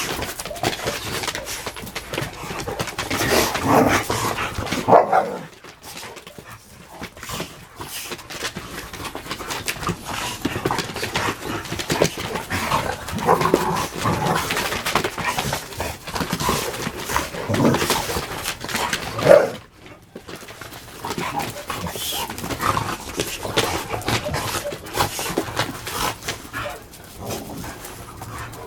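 A Tosa and pit bull-type dogs play-fighting: intermittent barks and whimpers over a steady clatter of scuffling, with brief lulls about five and twenty seconds in.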